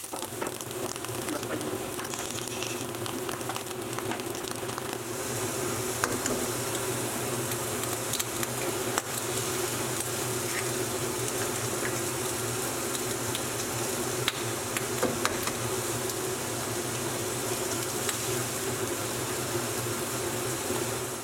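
Steak, bacon and eggs frying in a non-stick pan on a gas hob: a steady sizzle with scattered pops, getting brighter about five seconds in.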